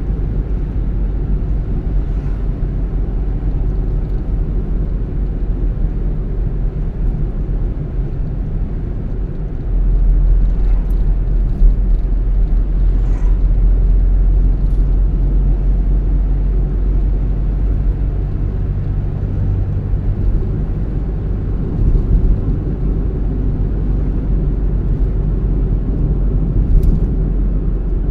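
Car driving along a road: a steady low rumble of engine and tyre noise, which gets louder about ten seconds in and stays louder.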